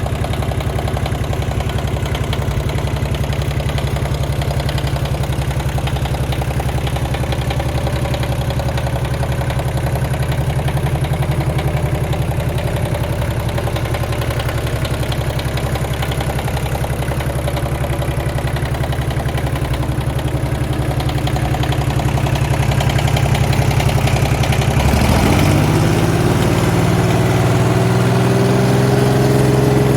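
Kioti tractor's diesel engine idling steadily, then revved up near the end, its pitch rising and holding at a higher speed.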